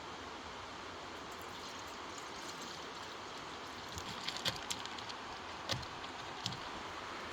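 Light drizzle: a steady hiss with scattered drops tapping, most of them between about four and six and a half seconds in.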